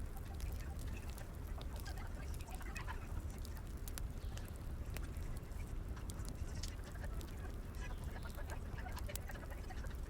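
Wood fire crackling: irregular sharp pops and snaps from burning firewood over a steady low rumble.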